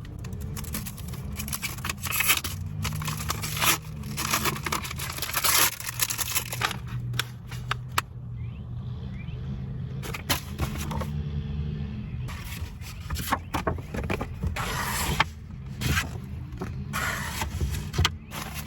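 Papers and small items rustling, crinkling and scraping as they are handled and sorted by hand, with irregular clicks and knocks, over a steady low hum.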